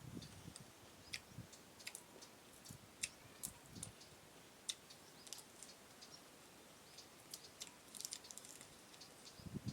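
Someone eating: faint, irregular mouth clicks and chewing sounds, with a few soft low thumps.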